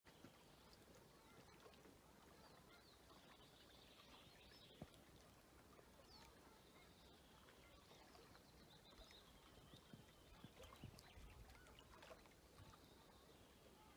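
Faint outdoor ambience of distant birds calling in high chirps and trills, with a few soft clicks.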